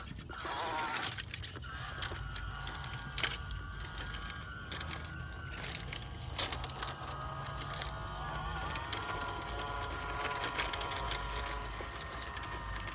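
WPL C24-1 RC crawler's 370 brushed motor and single-speed metal transmission whining under throttle, its pitch dipping and shifting partway through as speed changes. Scattered sharp clicks and knocks throughout.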